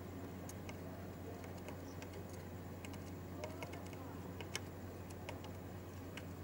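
Scattered light clicks and taps of small hand tools working on a circuit board during soldering, over a steady low electrical hum.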